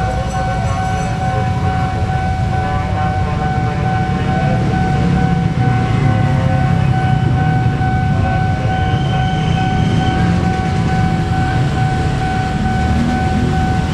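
Train running through a level crossing: a continuous heavy rumble, with a constant high steady tone sounding over it.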